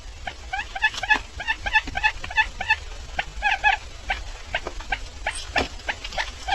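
Barred buttonquail calling: a quick run of short, pitched notes, about three to four a second, with scattered clicks and a low hum underneath.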